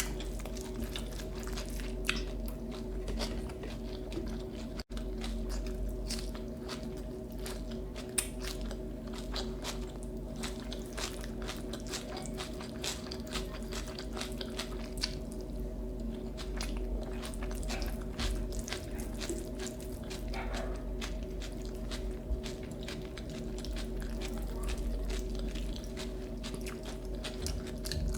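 Close-up eating sounds: food being bitten and chewed, with wet mouth sounds and frequent small crunches and clicks. A steady low hum runs underneath.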